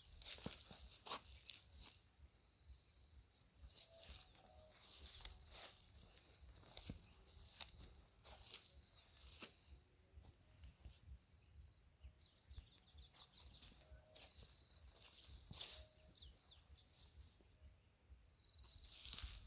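Insects trilling steadily at a high pitch, a fast continuous pulse, with scattered faint clicks and rustles like footsteps through vegetation.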